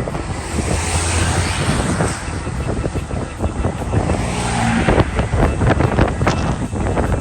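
A car driving through storm wind, with engine and road noise under a rushing haze. From about five seconds in, many sharp ticks of drops striking the vehicle.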